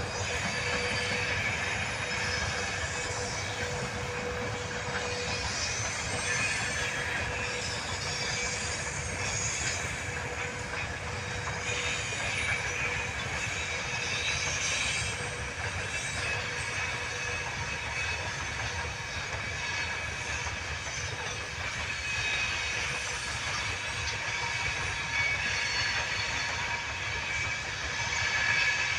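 Freight train hauled by a VL80s electric locomotive rolling past: a steady rumble of wheels on rails with a thin, high-pitched squeal over it.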